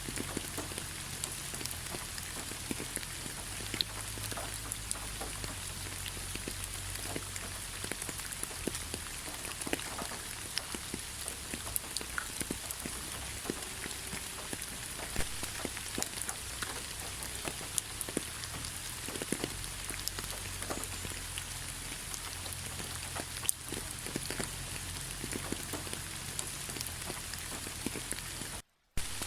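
Steady rain falling, with many separate drops ticking sharply close by over the even hiss. The sound cuts out for a moment near the end.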